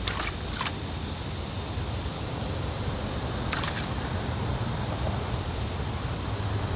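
Steady outdoor background noise with a few sharp clicks: two near the start and two more about three and a half seconds in.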